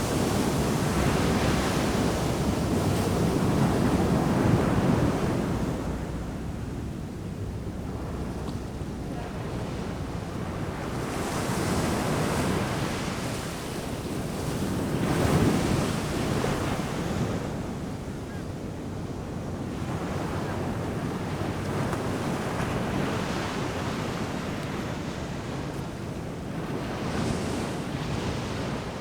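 Ocean surf breaking and washing on the shore in repeated surges, loudest in the first few seconds and again about halfway through, over a constant low rumble of the sea.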